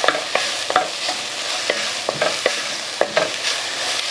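Chopped onion and minced garlic sizzling in a hot pan while a utensil stirs them, with irregular knocks and scrapes against the pan.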